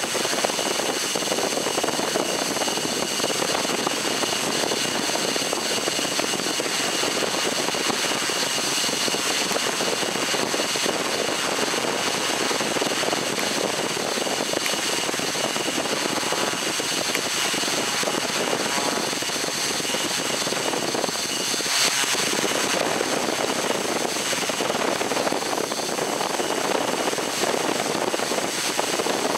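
Drone's electric motors and propellers running steadily: a rushing noise with a constant high whine on top, swelling briefly louder about two-thirds of the way through.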